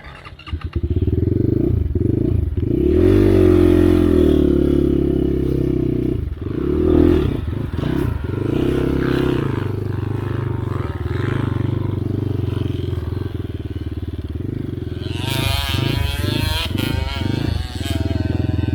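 Enduro motorcycle engines revving in uneven surges, rising and dropping. About three-quarters of the way through, a higher-pitched engine revs up and down for a couple of seconds.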